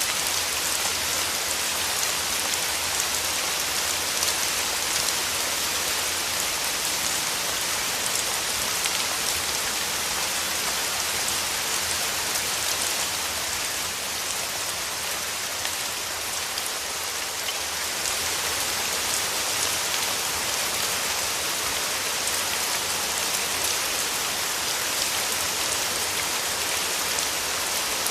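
Steady rain falling, a constant hiss of many drops hitting surfaces, with no let-up.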